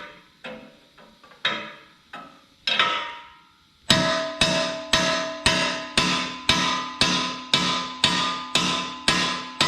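Hammer blows on a steel drift pin, driving a pin out through the top of a jaw crusher's jaw, each strike ringing metallically. A few uneven blows come first, then from about four seconds in a steady rhythm of about two strikes a second.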